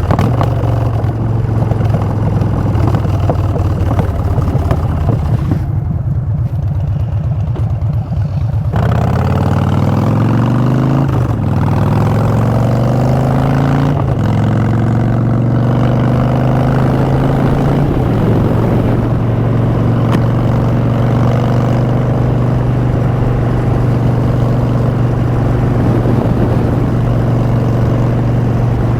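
2016 Harley-Davidson Street Bob's V-twin running through Vance & Hines Short Shots exhaust while riding. The note holds steady, eases off for a few seconds, then climbs as the bike accelerates, dropping twice at gear changes, and settles into a steady cruise for the rest.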